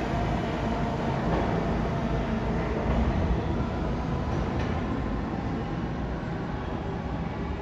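New York City subway train running along the track, a steady rumble of wheels on rails with a faint hum, slowly getting quieter.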